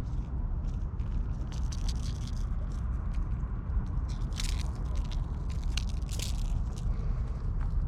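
Stray cats playing with a toy: short scratchy rustles and crunches of scraping and biting, the strongest about halfway through and again about six seconds in, over a steady low rumble.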